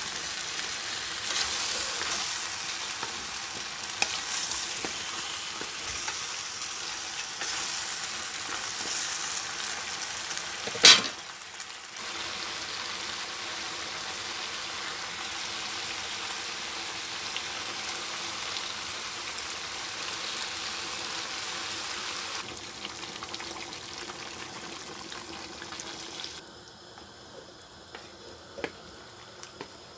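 Chicken wings and vegetables sizzling in a frying pan, stirred with a wooden spatula, with one sharp knock about eleven seconds in. The sizzling grows quieter in the last third.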